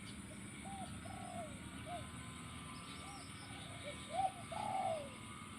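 Spotted dove cooing: a string of short arched coos. It ends with the loudest coo and then a longer coo that falls in pitch.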